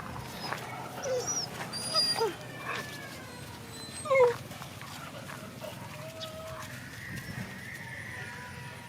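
A dog giving a few short, high calls that slide in pitch, about a second apart, the loudest about four seconds in.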